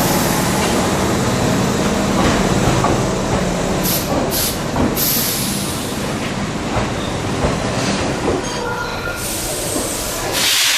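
Electric commuter train running past at a station: a steady rumble of wheels and motors with a few clicks, and short bursts of air hiss about four seconds in and again near the end.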